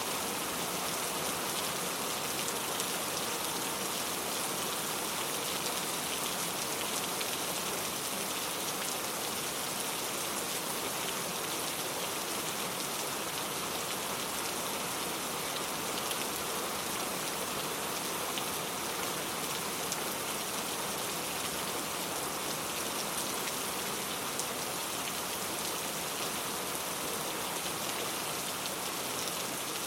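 Steady rain ambience: a constant hiss of rainfall with fine drop patter.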